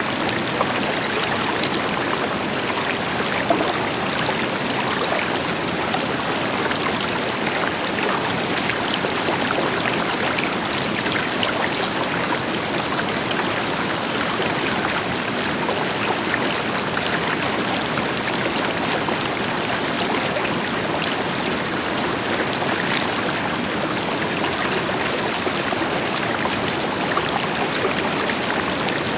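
A river flowing steadily, a constant rush of water with many small splashes over it, and a distant waterfall adding a deeper rush beneath.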